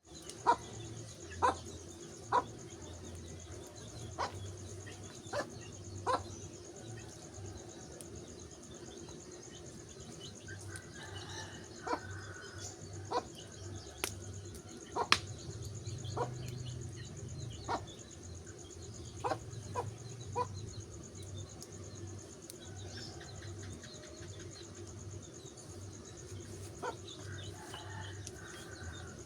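Wood fire crackling, with sharp single pops every second or so over a steady low rush of burning.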